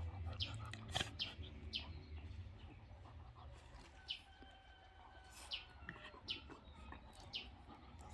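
Small birds chirping outdoors: short, quick, falling chirps repeated every second or so, with a few brief whistled notes in between, over a faint low rumble that fades away in the first half.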